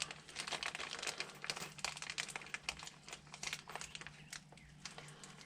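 Faint, irregular crinkling and small clicks of carburetor rebuild-kit parts and their packaging being handled and sorted.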